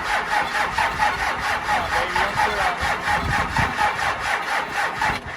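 Cummins diesel engine in a Dodge Ram turning over on the starter in a rapid, even rhythm without catching, then stopping abruptly near the end. It is a cold start after weeks of sitting, with fuel likely drained back from the pump, and the engine comes close to firing.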